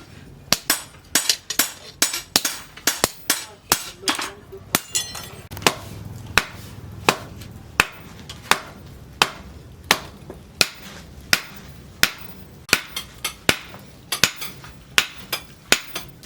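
Hammer blows on steel against an anvil, hand-forging a knife blade. Each strike rings briefly. The blows come unevenly at first, then settle into a steady beat of about three every two seconds, over a faint low hum.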